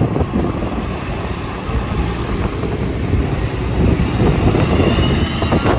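A large vehicle running close by, with engine rumble, general noise, and a faint rising whine through the middle and later part.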